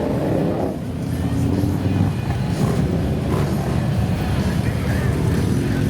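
Many motorcycle engines running and revving together as a column of motorcycles sets off.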